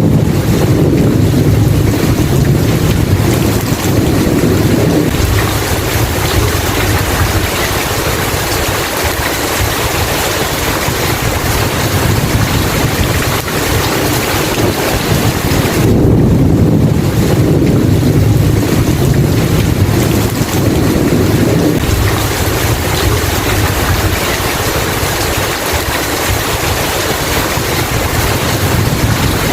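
Steady heavy rain with rolling thunder: a long low rumble in the first few seconds and another about sixteen seconds in, each lasting several seconds.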